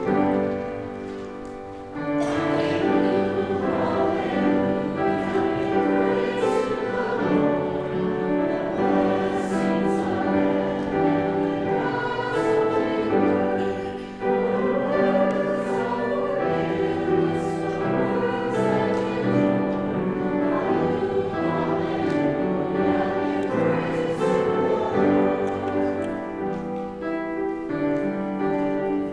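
A church congregation singing a hymn together with instrumental accompaniment: the gospel acclamation sung before the gospel reading. A soft instrumental opening gives way to full singing about two seconds in, with a short break between phrases about halfway through.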